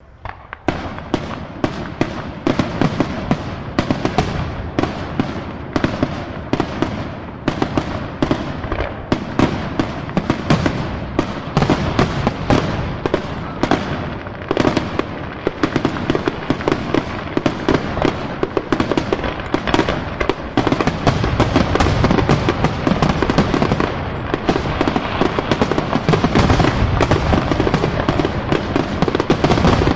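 A fireworks finale: a dense, continuous barrage of shell bursts and crackling, several bangs a second with no pause, growing a little louder toward the end.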